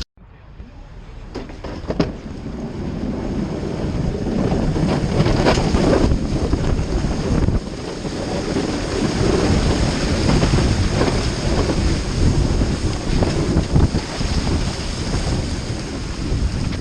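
Plow truck pushing heavy wet snow: a rushing noise that builds over the first few seconds and then holds, with wind on the microphone and a sharp knock about two seconds in.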